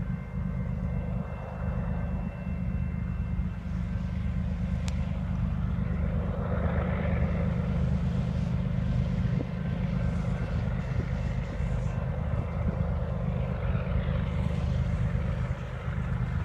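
Diesel locomotive engines running with a steady low droning hum, with a fainter rushing sound swelling and fading higher up now and then.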